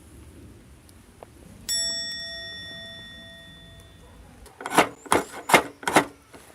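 A single metallic ding rings out and fades over about two seconds. It is followed by four short crunching sounds in quick succession, which are the loudest thing here.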